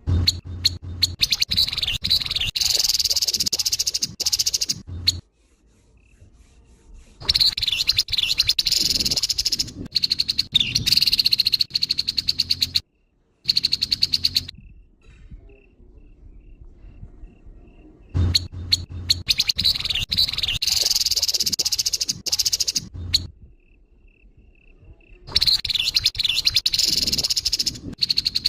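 Grey-headed babbler giving its harsh, rasping calls in four bouts of about five seconds each, with short pauses between them. A faint string of short, high notes repeats in two of the pauses.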